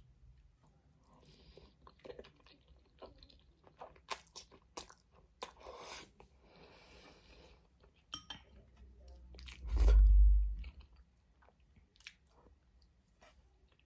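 Close-miked mouth sounds of someone eating spaghetti: wet chewing with sharp smacking clicks and short slurps. About ten seconds in comes a single loud, dull thump lasting about a second.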